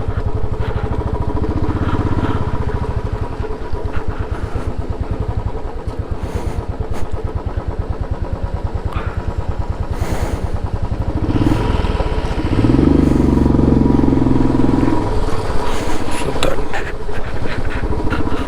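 Motorcycle engine pulling at low speed on a rough off-road track. The revs climb about eleven seconds in and are held higher for a few seconds before easing off.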